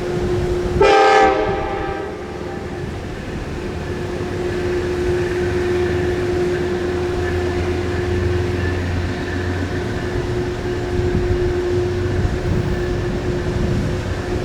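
Passenger train at a station giving one short horn blast about a second in, several notes sounding together. After it, a steady hum over a low rumble as the train runs on.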